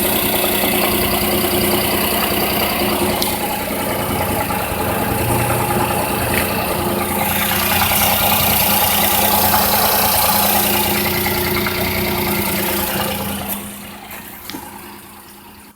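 1995 Daihatsu Hijet's 660 cc three-cylinder engine idling steadily, heard close up; the sound fades away near the end.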